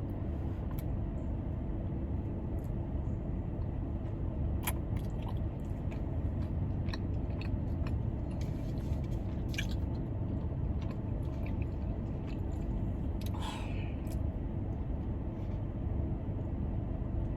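Close-up chewing and biting with scattered short mouth clicks, over the steady low hum of a car's air conditioning.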